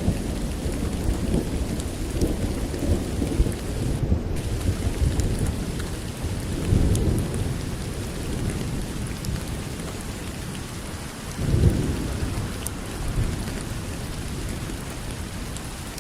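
Steady rain with low rumbles of thunder, swelling about seven seconds in and again near twelve seconds.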